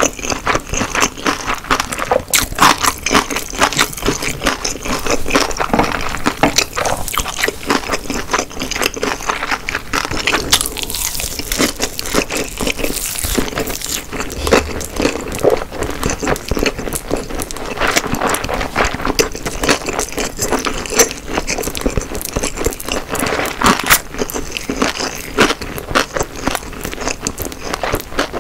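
Close-miked eating of egg-roll gimbap (gimbap wrapped in rolled omelette): wet, sticky chewing with many small sharp clicks, continuing without pause.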